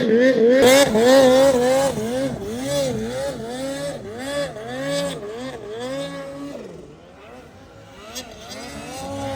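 Snowmobile engine revving up and down in quick, repeated throttle bursts as the sled is worked through deep snow. It quietens about seven seconds in, then picks up again near the end.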